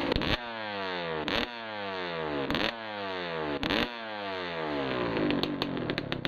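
1991 Suzuki RM125 two-stroke dirt bike engine being revved in repeated throttle blips, about one every second: each time the revs jump up sharply and then fall away. Near the end the revs settle lower. It is running clean, which the rider puts down to the cheap premix having been the problem.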